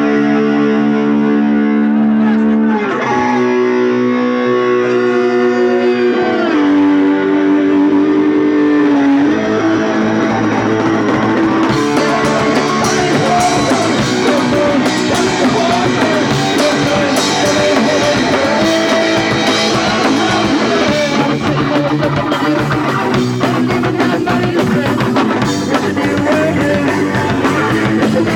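Punk rock band playing live: electric guitar holding long chords that change every two or three seconds, then drums and the full band come in about twelve seconds in.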